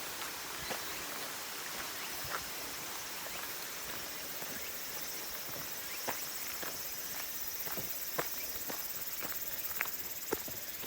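Footsteps on a hiking trail, a scattered series of sharp taps, over a steady rushing hiss.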